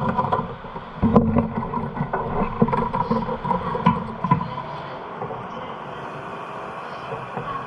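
Motorcycle engine running with an uneven, pulsing beat that eases to a steadier, quieter sound after about four and a half seconds.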